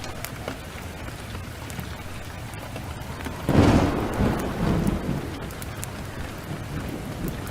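Heavy rain pouring steadily, with a sudden thunderclap about halfway through that rumbles on for a couple of seconds, swelling once more before fading back under the rain.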